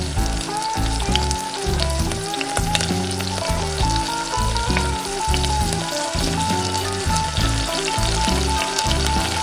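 Food sizzling and crackling in hot oil, a dense run of fine pops, over background music with a steady beat.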